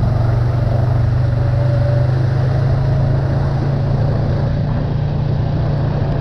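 Engine of an off-road vehicle running steadily at an even speed while mud riding, with a low hum and a haze of road and wind noise above it.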